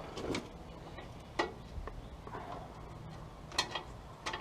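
A handful of light metal clinks and taps, spaced irregularly, as an exhaust pipe is worked into place against its gasket.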